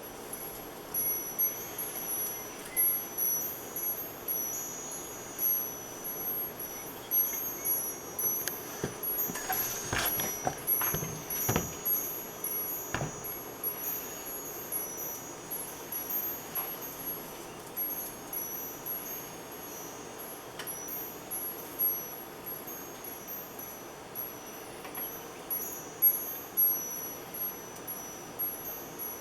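Wind chimes ringing in the wind, many short high notes overlapping irregularly, with a few knocks about ten to thirteen seconds in.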